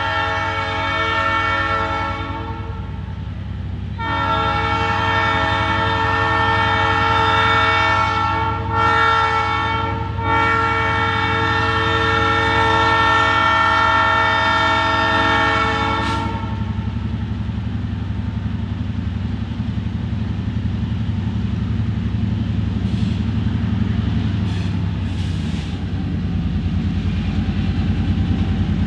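Diesel locomotive horn: a short blast, then after a brief gap a long blast of about twelve seconds. After the horn stops, the locomotive's engine is heard running, getting somewhat louder near the end.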